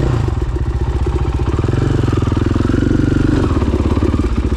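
KTM 500 EXC-F dirt bike's single-cylinder four-stroke engine running, the throttle opening up about a second and a half in and easing off again near the end.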